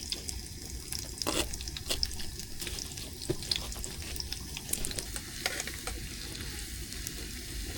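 Water splashing and trickling, with many small irregular crackles and ticks.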